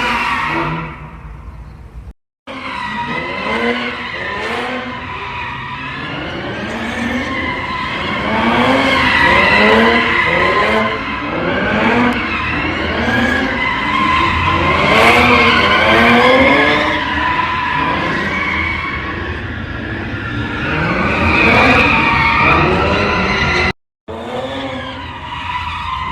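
A car doing donuts or a burnout: its tyres squeal steadily while the engine revs up and down over and over.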